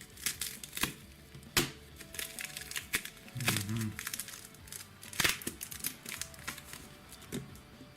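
Plastic parcel packaging crinkling and tearing as it is opened by hand, in irregular crackles and clicks, with faint background music.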